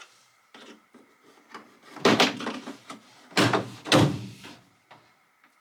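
Three loud clunks, each with a brief rattle, about two, three and a half and four seconds in, among quieter clicks and knocks: hard objects being handled and knocked.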